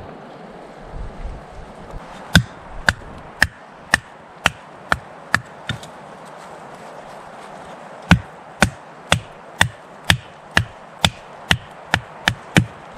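Chopping blows on wood, sharp and evenly paced at about two a second: a run of about eight, a pause of about two seconds, then a run of about ten.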